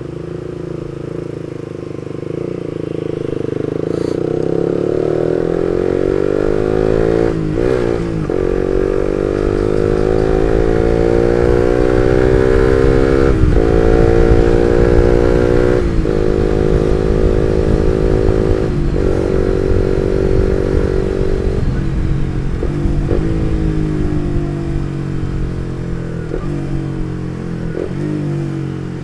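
Suzuki GSX-R150's single-cylinder four-stroke engine through an R9 Misano aftermarket exhaust, pulling hard under way: the exhaust note climbs in pitch, dips briefly at each gear change and climbs again, several times over, then eases off towards the end.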